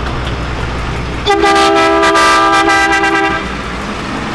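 A vehicle horn sounds once, held for about two seconds as a steady two-note chord. A low engine rumble runs before it and fades as the horn starts.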